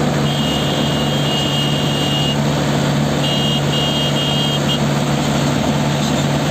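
Tractor diesel engine running steadily under way. Over it a thin high-pitched tone sounds twice, the second time broken into short pieces.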